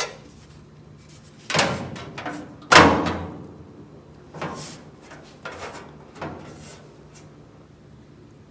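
A run of about six clanks and sliding knocks from metal tools or parts being handled on a workbench, the loudest about three seconds in, over a faint steady low hum.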